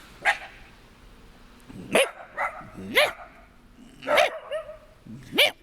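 A dog barking, about seven short sharp barks at irregular intervals of roughly half a second to a second and a half.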